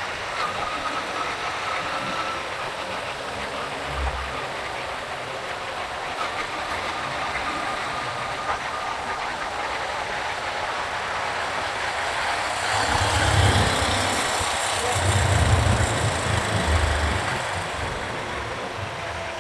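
Road noise of a motorcycle ride in city traffic: steady engine and tyre noise with wind. About two thirds of the way in it grows louder for a few seconds with a low rumble and more hiss.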